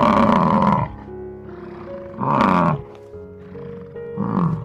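Highland bull bellowing three times in short, loud calls that fall in pitch, over background music.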